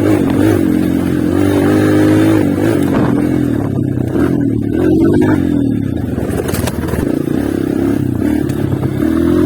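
Honda CRF230 trail bike's single-cylinder four-stroke engine running under way, its note rising and falling with the throttle, a little quieter in the middle of the stretch, with some clatter from the bike.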